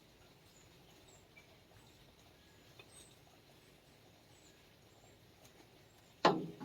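Quiet background with faint, short high-pitched chirps, then a voice starting up near the end.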